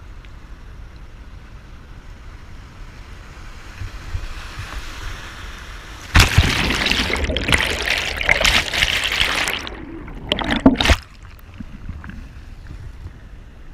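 Water splashing around a kayak: a loud spell of splashing lasting about three seconds, starting about six seconds in, then two short splashes, over a low wind rumble on the microphone.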